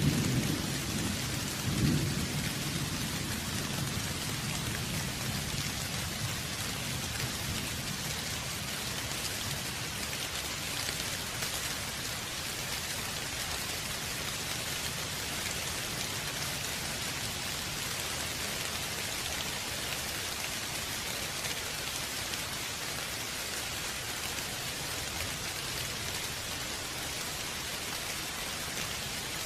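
Steady heavy rain falling, with a low thunder rumble in the first few seconds that swells once about two seconds in and then dies away, leaving only the rain.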